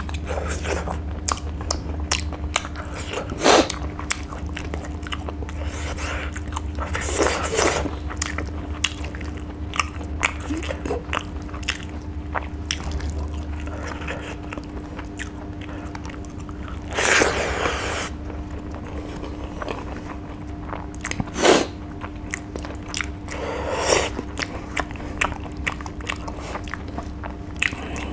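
Close-up eating sounds of a person chewing fish and rice by hand: many small wet mouth clicks, with a few louder crunching bites spaced several seconds apart. A steady low hum runs underneath.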